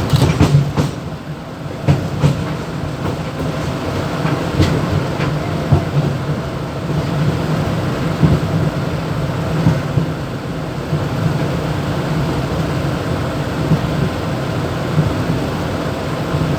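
Mumbai suburban electric local train (EMU) running, heard from inside the motorman's cab: a steady hum with sharp clicks and knocks, several in the first two seconds and another about four and a half seconds in.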